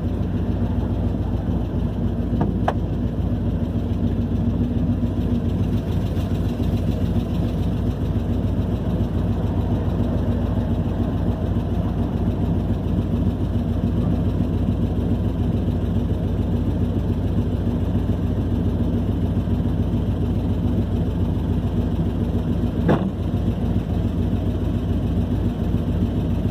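2001 Camaro SS's LS1 V8, freshly fitted with a new cam and cylinder heads, running steadily at a constant speed with a loud exhaust. It is running badly, and the owner fears major engine damage.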